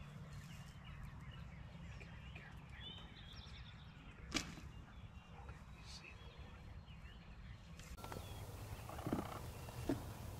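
Wild turkey gobbling, with a sharp call about four seconds in and another burst near the end, over faint songbird chirps.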